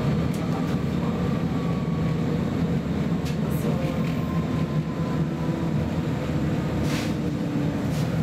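Cabin noise of a Roslagsbanan X10p electric multiple unit running along the line: a steady low rumble of wheels on rail with faint whines that drift slightly in pitch. A few short sharp clicks come through, the loudest about seven seconds in.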